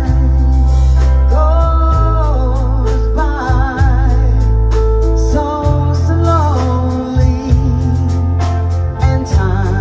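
A band playing a song, with a singer holding long notes with vibrato over a steady bass line and a regular drum beat.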